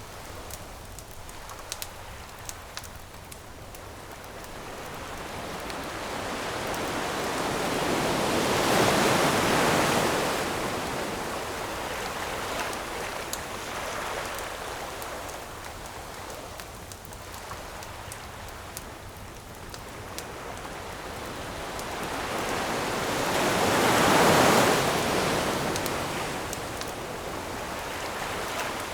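Ocean waves washing onto a shore, swelling twice, to a peak about a third of the way in and again near the end, with a few sharp campfire crackles, mostly in the first few seconds.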